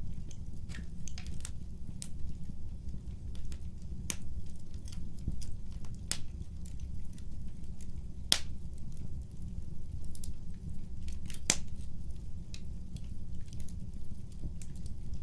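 Wood fire burning: a steady low rumble of flames under scattered sharp crackles and pops, the loudest pops about eight and eleven and a half seconds in.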